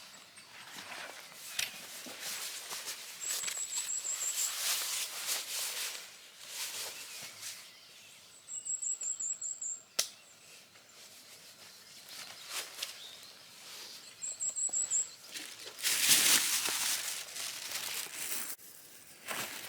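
A small songbird giving a very high, thin trill of rapid repeated notes three times. Irregular rustling and crackling sound through it, with a sharp click about halfway through and the loudest rustling burst near the end.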